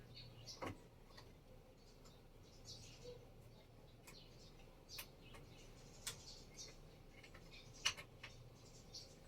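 Faint, scattered light clicks and taps, about half a dozen, the loudest near the end, over a quiet background with faint high chirps.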